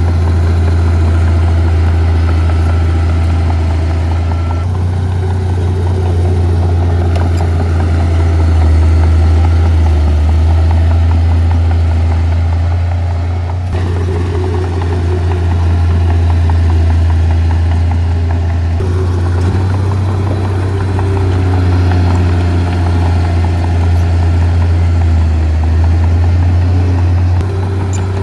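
Heavy earthmoving machinery's diesel engine running steadily with a deep low hum. The sound shifts abruptly a few times along the way.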